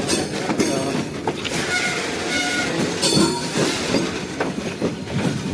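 Train wheels clattering and clanking over the rail joints and frogs of a crossover, with irregular sharp knocks and brief high squeals of wheel flanges on the rails, over a steady rumble.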